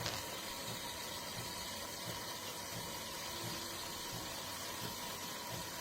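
De'Longhi Rivelia automatic espresso machine running with a steady low hum and hiss while it prepares a latte, after a brief click right at the start.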